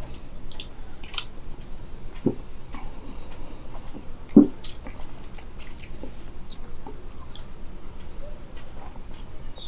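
A person drinking canned cola: a few swallowing gulps and small wet mouth and fizz clicks, the loudest gulp about four seconds in.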